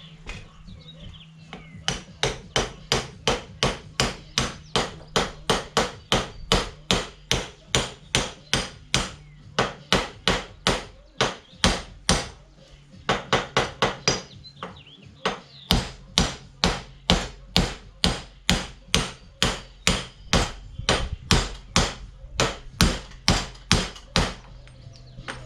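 Repeated hammer blows, about two a second, driving a tight, grease-packed spindle bearing onto the spindle shaft of a Woods 6215 mower deck. The strikes pause briefly a couple of times around the middle, then go on steadily.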